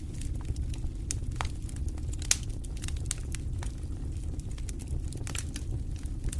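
Fireplace fire crackling: a steady low rumble with frequent sharp pops, one louder pop a little over two seconds in.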